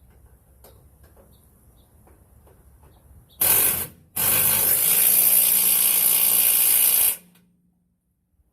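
Cordless impact wrench hammering a bolt tight, likely the lower bolt of a rear shock. It gives a short burst about three and a half seconds in, then a longer run of about three seconds that cuts off suddenly.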